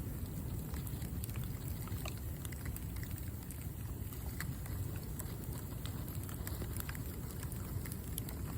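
Bamboo charcoal fire crackling, with many irregular sharp pops and snaps over a steady low rumble.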